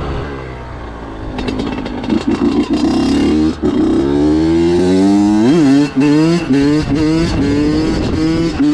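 Honda CR85 two-stroke dirt bike engine running low at first, then revving up and accelerating through the gears, its pitch climbing and dropping back in steps at each shift, with one sharp rev about halfway through.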